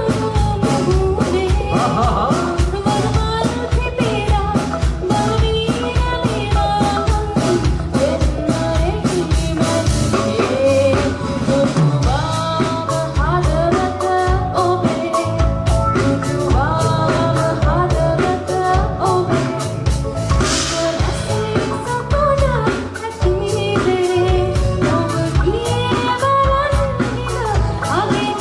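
Live band performing a Sinhala song with a woman singing the melody over a drum kit keeping a steady beat.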